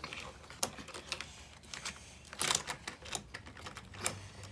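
Scattered light plastic clicks and clacks from a toy car and a Hot Wheels playset being handled, at an irregular pace with a small cluster about two and a half seconds in.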